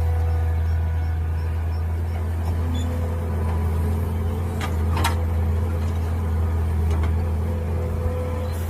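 Mini excavator's engine running steadily at a constant speed, with a few sharp knocks about halfway through.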